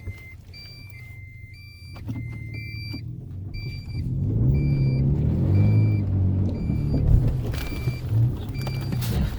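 In-cab warning chime of a 2010 Toyota Tacoma beeping repeatedly, about twice a second, over the truck's engine. The engine pulls harder from about four seconds in, rising in pitch as the truck climbs through a hole on a rough trail in four-wheel low, with a single knock about seven seconds in.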